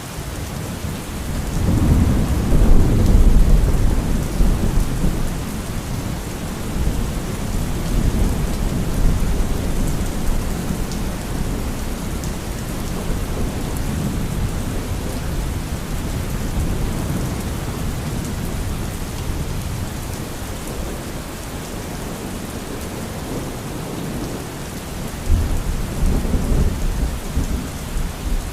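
Thunderstorm: steady heavy rain with rolling thunder. A long deep rumble builds about a second and a half in and slowly fades, and another thunderclap breaks in suddenly near the end.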